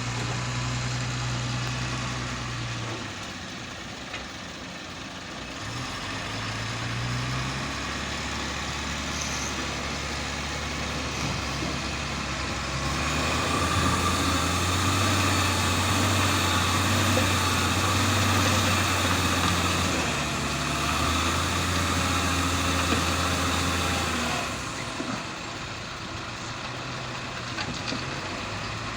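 Heavy truck-type engine running, its note shifting several times. It runs louder and faster for about ten seconds from about halfway through, then drops back.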